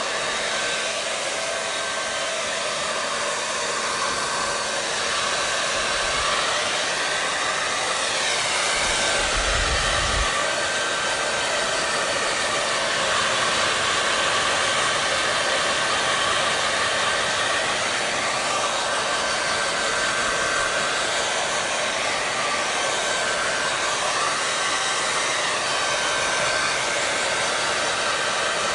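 Hair dryer (blow dryer) running steadily with an even airflow hiss and motor whine, its pitch rising and falling gently now and then.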